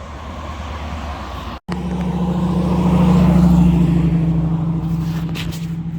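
A car engine running close by, a steady low hum. It breaks off for an instant about a second and a half in, then comes back stronger, swells to its loudest midway and eases off.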